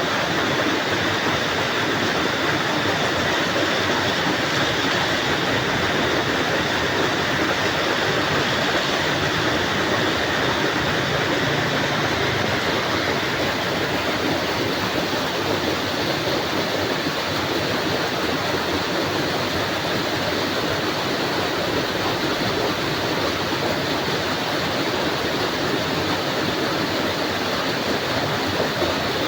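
Heavy tropical rain falling steadily, a dense, even hiss that neither builds nor fades.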